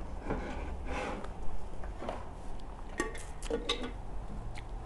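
Close-up eating sounds: wet chewing of chewy rice cakes in cream sauce, with a few sharp clicks of cutlery against a dish about three seconds in.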